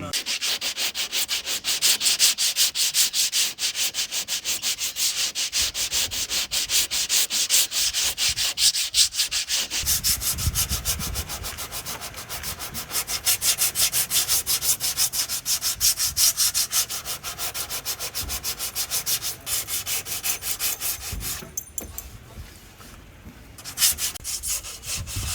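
Hand sanding: quick, steady back-and-forth strokes of abrasive rasping on a hard surface, easing off after about twenty-one seconds.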